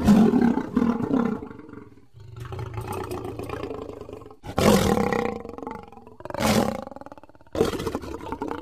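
Lion roaring: a series of deep, rough roars, one right at the start and more about four and a half, six and a half and seven and a half seconds in, with a quieter drawn-out call in between.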